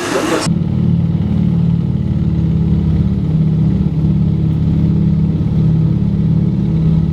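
Junkers Ju 52's three radial engines droning steadily in flight, heard from inside the cabin as a deep, even hum with the higher sounds muffled. The drone sets in abruptly about half a second in, replacing a brighter rushing noise.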